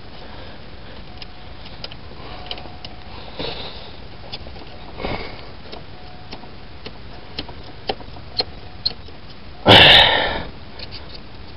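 A few faint scattered clicks with no engine cranking or running, and a loud sniff near the end, with softer sniffs earlier.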